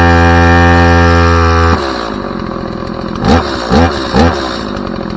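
A loud, steady, even-pitched buzz that cuts off suddenly about two seconds in, then a chainsaw's two-stroke engine idling with three quick throttle blips, each rising and falling in pitch.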